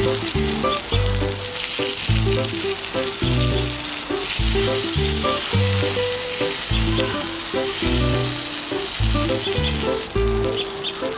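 Octopus sizzling on hot volcanic rock, a steady hissing sizzle, under background music with a repeating bass line and melody.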